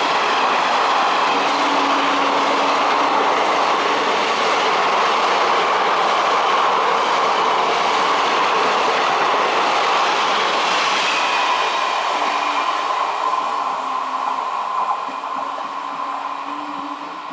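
Passenger train passing at speed: a steady, loud rush of wheels on rail joints, fading as it recedes over the last few seconds.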